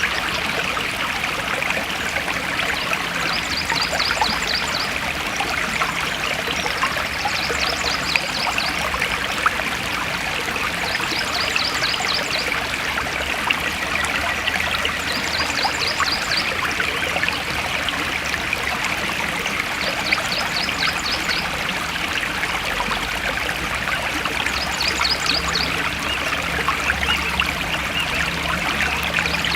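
A forest stream flowing and trickling steadily. Over it, a short, rapid series of high chirps repeats about every four seconds.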